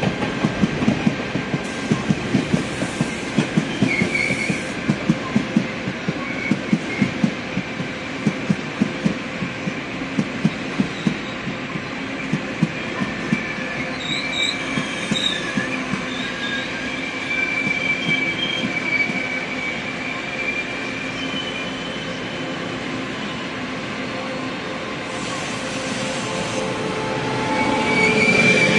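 Tze-Chiang push-pull (E1000 series) express train pulling into the station: wheels clacking over rail joints, the clacks spacing out as it slows, with high wheel squeals in the second half.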